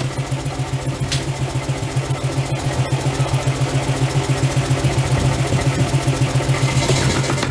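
Machinery running with a steady low hum that pulses evenly several times a second, like an engine or pump motor at a constant idle.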